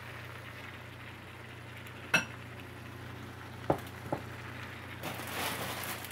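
Beef chunks with diced bell peppers and onion frying in a wok, a soft steady sizzle. A sharp ringing clink about two seconds in and two lighter knocks near four seconds from a utensil against the pan, then a louder rush of sizzling near the end.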